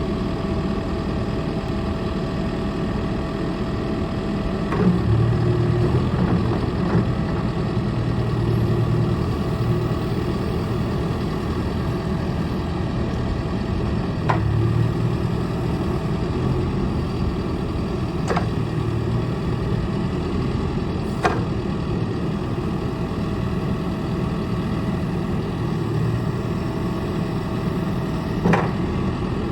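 John Deere 4.5 L diesel engine of a 410K loader backhoe running steadily, with a few sharp knocks at intervals.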